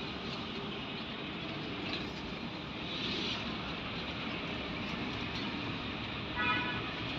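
A train running on the rails, a steady, even running noise, with a brief high-pitched sound about six and a half seconds in.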